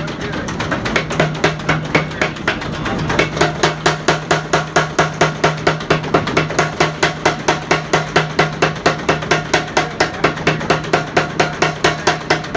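Mechanical power hammer pounding a hot steel tomahawk head in a fast, steady rhythm of about five blows a second, over a steady motor hum. The blows slacken briefly near the start.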